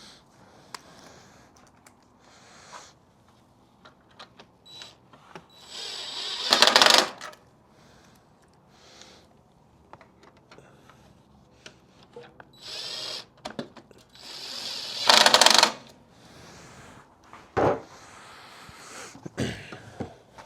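Power drill running fasteners in short spells: two main runs of about a second each, with a shorter one between, and light clicks and knocks of parts being handled.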